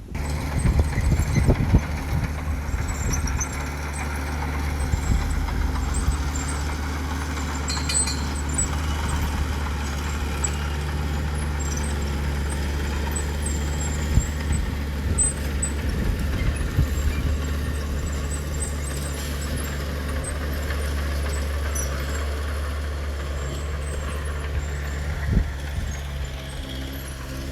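Heavy diesel engine of earthmoving machinery running steadily at a low, even drone, with a few short clanks.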